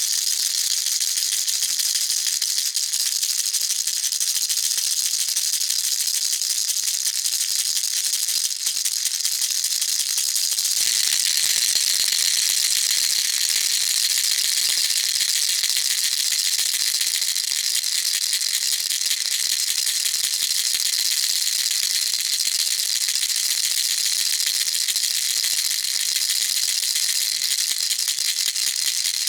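A baby rattle shaken continuously, giving a dense, steady, high rattle. About eleven seconds in its tone changes slightly, turning a little brighter.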